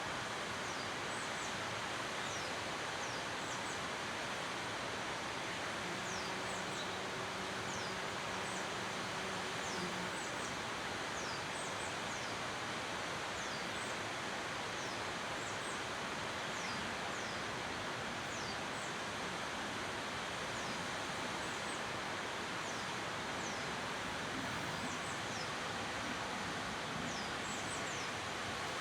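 Waterfall's steady rush of falling water, with a small bird's high, thin descending chirps repeating in little groups of two or three. A faint low hum comes in for a few seconds about six seconds in.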